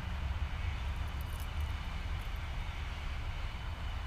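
Two-stroke chainsaw idling with a steady low drone.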